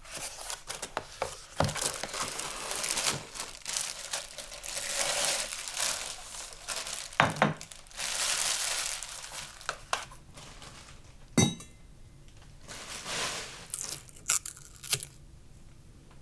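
Packaging crinkling and being torn open in irregular bursts, with a few sharp knocks in between.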